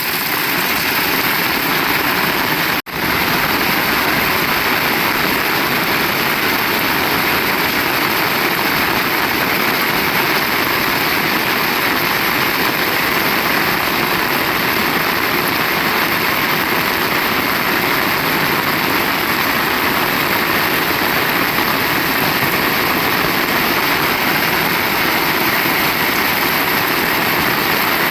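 Heavy rain falling steadily, a dense even hiss. The sound cuts out for an instant about three seconds in.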